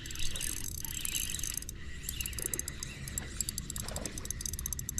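Daiwa Luvious 2500 spinning reel being cranked fast, a rapid run of fine mechanical clicks in stretches with brief pauses, as a crappie is reeled in.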